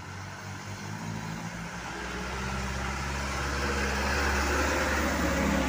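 A truck's engine running with a steady low hum and road noise, growing steadily louder as it approaches.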